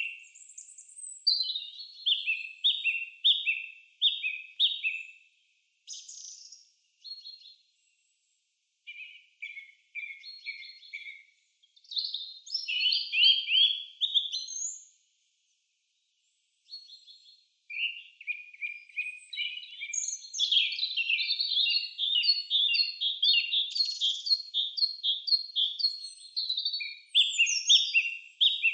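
A songbird singing in rapid phrases of short, high chirped notes that fall in pitch, with pauses of a second or two between phrases.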